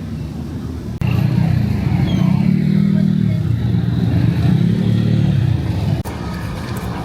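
Street traffic: a low vehicle engine rumble that jumps louder about a second in, rises and falls in pitch twice, and drops back suddenly about six seconds in.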